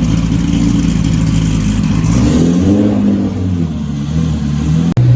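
Turbocharged 5.2-litre Magnum V8 in a Dodge Dakota running, with a brief rise and fall in engine speed about two to three seconds in. Near the end it changes abruptly to a steadier, lower engine note.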